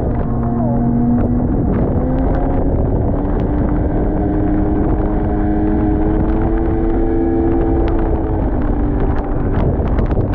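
Snowmobile engine running under way. Its pitch climbs over the first few seconds, holds, then drops about eight seconds in, over a heavy low wind rumble on the microphone and scattered sharp clicks.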